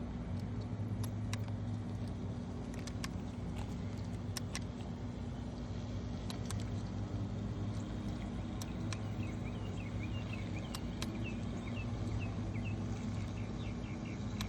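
A steady low mechanical hum, like a running engine or machine, with light scattered clicks. From about nine seconds in comes a run of short, high chirps.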